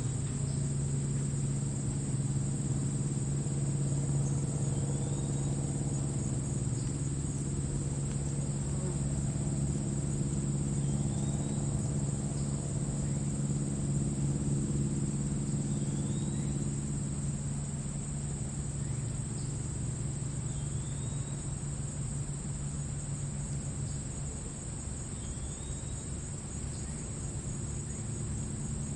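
Crickets chirring steadily in grass, a continuous high trill, over a low rumble that eases about two-thirds of the way through. A faint short call repeats about every five seconds.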